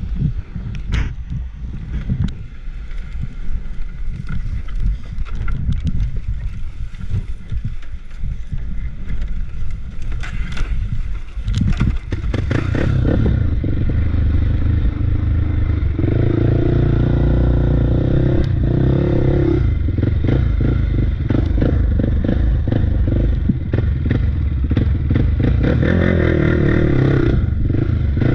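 Small off-road bike engine running on a rough trail, with clattering and knocking from the ride over uneven ground. Before the halfway point it grows louder and steadier, revving up in two stretches, one just past the middle and one near the end.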